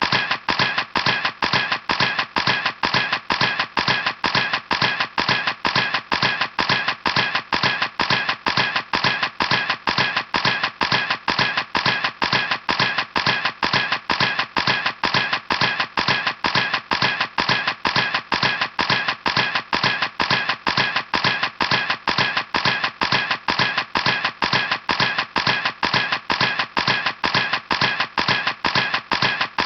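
Camera shutter clicking over and over at a steady, even pace, a few clicks a second.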